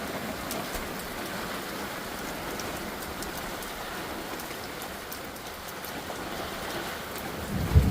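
Steady heavy monsoon rain pouring down, with scattered drips ticking. Near the end a loud, low rumble of thunder breaks in.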